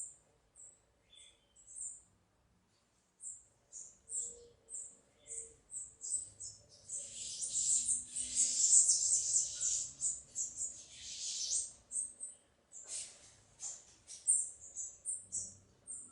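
Small birds chirping: short, very high cheeps repeated every half second or so. For several seconds in the middle they thicken into a dense, louder chatter of several birds.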